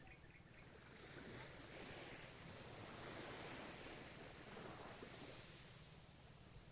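Faint ocean waves washing in: a swell of surf that builds about a second in and eases off toward the end.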